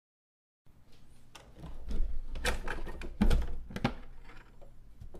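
Small plastic toy kitchen pieces (pots, lids and a toy cooktop) being handled and set down on a table: a series of light clicks and knocks, starting a moment in, several close together in the middle.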